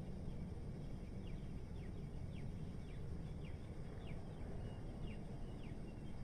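Steady low city rumble with a bird repeating a short falling chirp about twice a second, starting about a second in.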